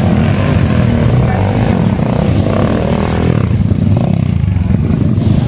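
Off-road motorcycle engines running and revving during an enduro motocross race, a dense low rumble that carries on without a break.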